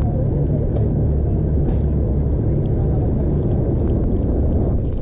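Steady low rumble of wind buffeting a chest-mounted GoPro Hero 5's microphone while riding a bicycle, with a few faint ticks over it.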